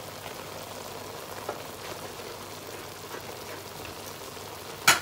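Chicken strips frying in oil in a pan, a steady sizzle with a few small crackles. A single sharp click near the end.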